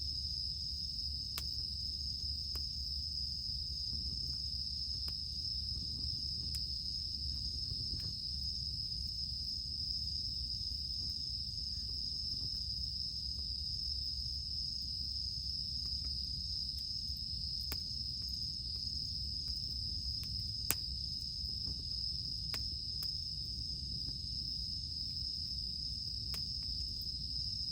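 Campfire crackling with scattered sharp pops, the sharpest a little after 20 seconds, over a steady high-pitched drone of cicadas.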